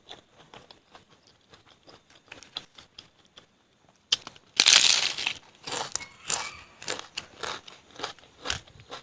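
Close-miked eating of pork and bamboo shoots cooked with rice powder. It is faint for the first few seconds, then comes a loud noisy burst about halfway through, followed by chewing crunches about twice a second.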